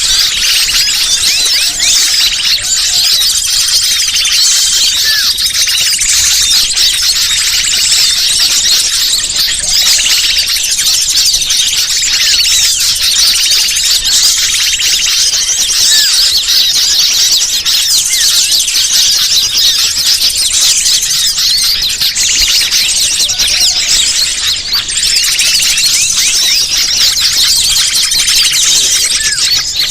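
Dense, continuous chorus of small songbirds chirping and trilling at high pitch with no let-up: a bird-luring (pikat) call recording meant to draw wild birds in.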